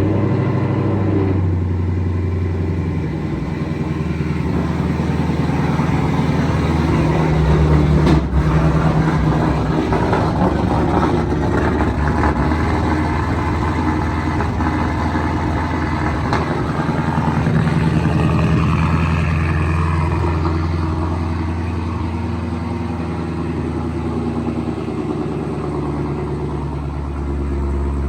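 2014 Mustang GT's 5.0 V8 idling high just after a cold start, the idle settling lower near the end. A single sharp exhaust pop comes about eight seconds in, which the owner calls normal for an engine that hasn't been started in weeks.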